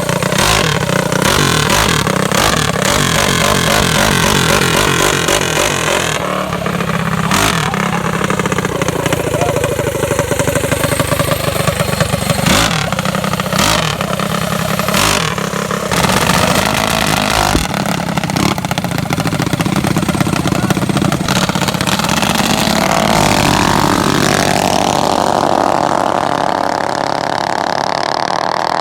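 Small four-stroke mini bike engines running hard and revving, the pitch rising and falling again and again, with a higher rising tone in the last few seconds.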